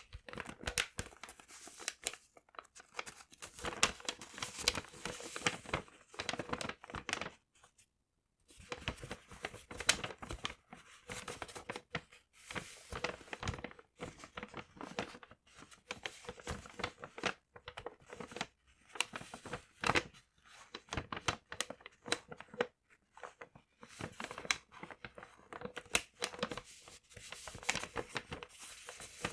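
Paper being crumpled and torn close up: dense crackling rustles with a brief pause about eight seconds in.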